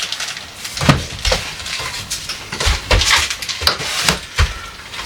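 Irregular knocks and clatter of containers and dishes being handled and set down while a refrigerator is cleared out, with a few louder bumps spread through.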